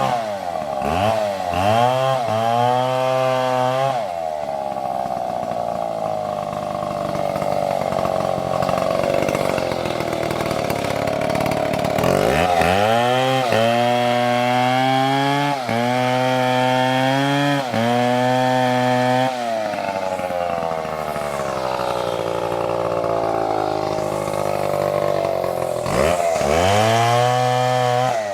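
Large two-stroke chainsaw cutting into a tree: a few quick revs, then several seconds at a lower steady pitch under load, revving up to a high steady pitch around the middle with brief dips, settling lower again and revving once more near the end.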